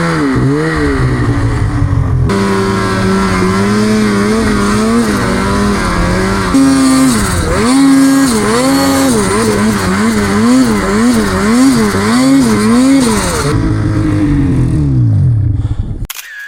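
Snowmobile engine running hard, its pitch rising and falling with the throttle, in quick repeated swells of about one a second through the middle. Near the end it winds down in pitch, then cuts off suddenly.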